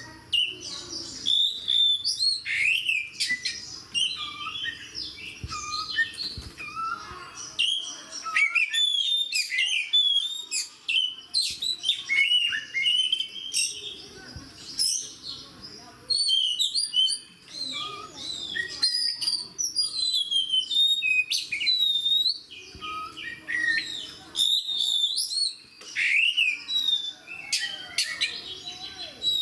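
Oriental magpie-robin (kacer) singing nonstop in a loud, fast, varied run of high whistles, rising and falling notes, trills and sharp chips.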